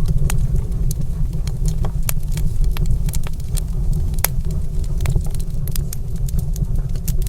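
Wood fire crackling in a stone fireplace: irregular sharp pops and snaps over a steady low rumble.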